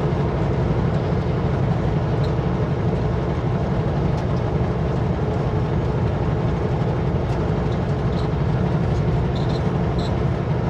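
Kenworth W900L semi truck running at a steady highway cruise: a constant low drone of diesel engine and road noise that neither rises nor falls.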